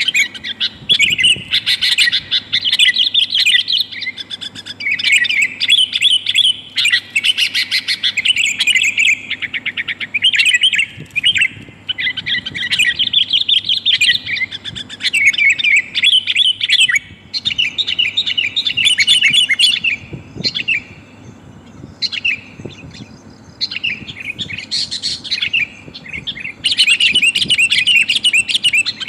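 Sooty-headed bulbul (kutilang) chirping in rapid, busy phrases, a lure recording billed as a female calling a male. The calling thins out and drops in level for several seconds past the middle, then turns dense again near the end.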